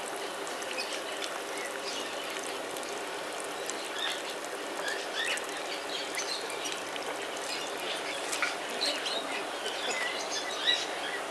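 Small birds chirping: short, high calls here and there over a steady background noise.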